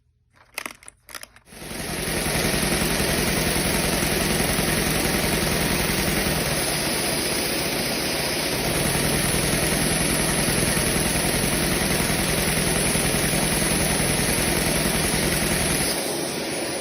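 A few clicks, then about a second and a half in a vacuum cleaner's suction starts and runs a two-cylinder flappy-valve Lego vacuum engine, with a steady rushing noise and a fast, even clatter. It eases off slightly near the end.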